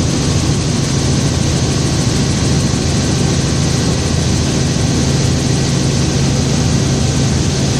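Helicopter in flight, its engine and rotor making a loud, steady drone with an even low hum that does not change.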